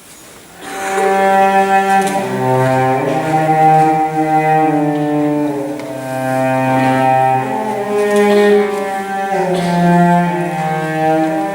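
Slow music on bowed strings with a low cello-like line, several notes held together and moving chord to chord every second or two, coming in about half a second in.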